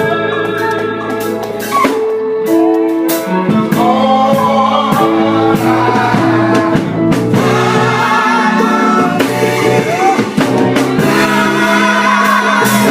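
A gospel group singing with electric guitar, bass and drum kit backing. Several voices carry wavering sung lines over held instrument notes and regular drum hits.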